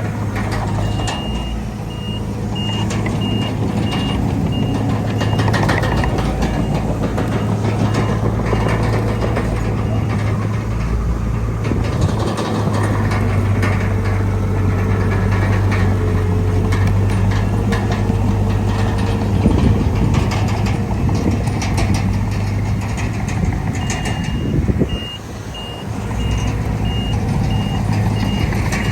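Heavy earthmoving machinery's diesel engine running steadily with clanking, while a reversing alarm beeps over and over, starting about a second in, stopping about a third of the way through and starting again near the end.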